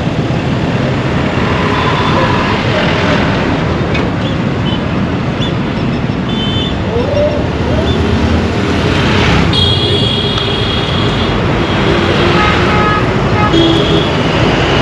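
Dense road traffic: a continuous mix of engines and tyres with several short horn toots, and one longer horn blast about two-thirds of the way through.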